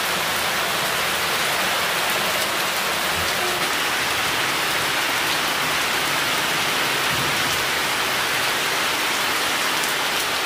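Rain falling steadily on forest trees and leaves, an even, unbroken hiss.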